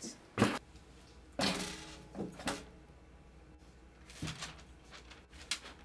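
A single sharp bang about half a second in, like a door or hand striking something solid, followed by a few softer knocks and rustles.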